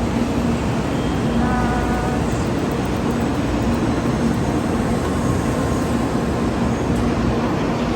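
Steady running noise of a passenger train, heard from inside the carriage.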